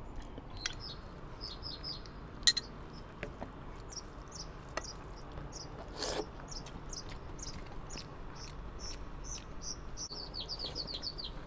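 Songbirds chirping, short high chirps repeating throughout, with a quick run of chirps near the end. A sharp click about two and a half seconds in and a brief noisy burst around six seconds stand out above the birdsong.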